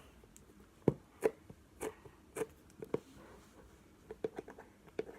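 Sticky homemade Blu Tack slime being worked in the hands, giving a series of sharp little clicks and pops, about two a second at first and fainter near the end.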